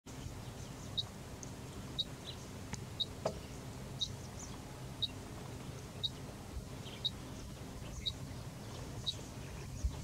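A bird repeating a short, high chirp about once a second in a steady rhythm, over a low steady hum.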